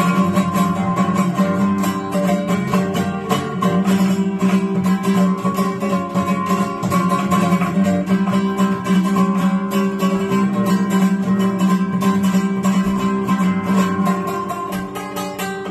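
Guitar playing a fast, busy line of plucked notes over a sustained low note.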